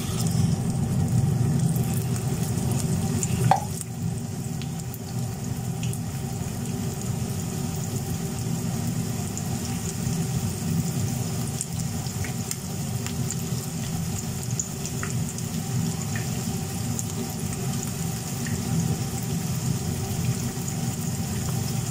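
Minced-meat gola kababs sizzling as they shallow-fry in hot oil in a frying pan on medium heat, a steady sizzle with small scattered crackles and one brief louder spit about three and a half seconds in.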